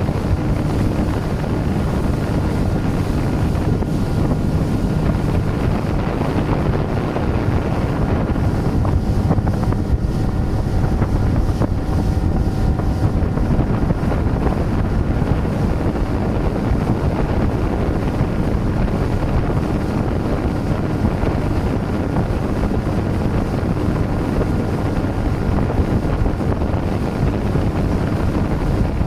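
Boat engine running steadily under strong wind buffeting the microphone.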